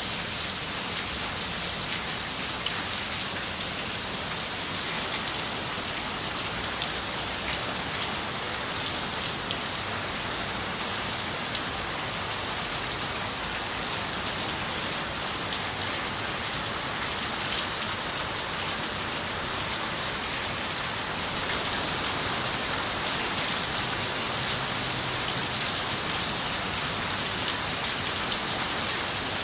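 Steady rain falling on a window, an even hiss with scattered individual drop ticks, growing slightly louder about two-thirds of the way through.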